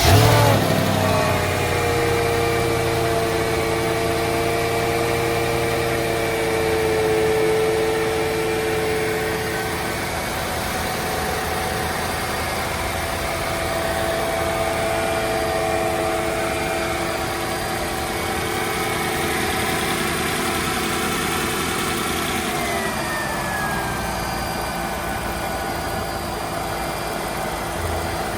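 2001 Mercedes-Benz CLK 430's 4.3-litre V8 just after a cold start: it flares loudest in the first moment, then settles into a steady fast cold idle. A whine runs over the idle, and the whine and idle note drop lower about 22 seconds in.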